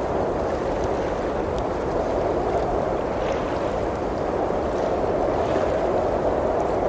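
Blizzard wind blowing in a steady rush, with a few faint crackles from a wood fire.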